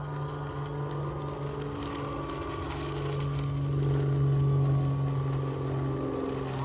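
Small RC crawler's 370 brushed motor and metal gearbox whining steadily as the truck drives, getting louder a few seconds in.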